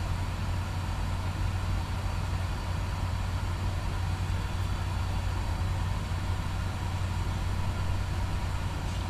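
Kenworth T680 semi truck's diesel engine running steadily, heard from inside the cab as a low, even hum.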